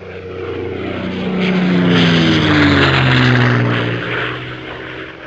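Aircraft flying past: an engine sound that swells and then fades, its tones sliding steadily down in pitch as it passes. It ends in a sudden cut.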